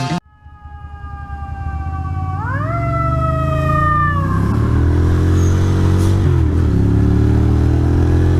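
Fire engine siren wailing: its pitch falls, rises sharply about two and a half seconds in, then falls away and fades out about four seconds in. Under it, engine noise grows steadily louder.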